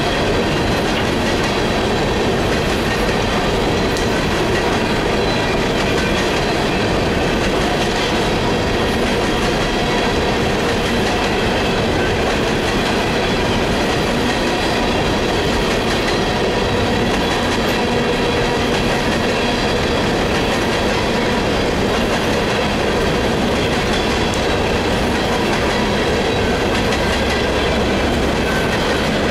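A long string of loaded or empty coal cars rolling past on the rails: a loud, even rumble of steel wheels on track, with a thin steady whine over it.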